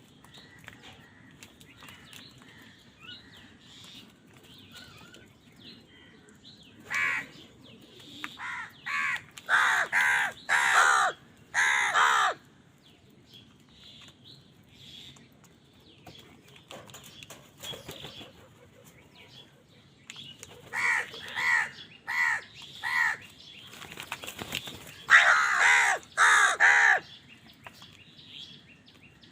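Crows cawing loudly in two runs of harsh caws, the first about seven seconds in and the second about twenty seconds in, with quiet gaps between.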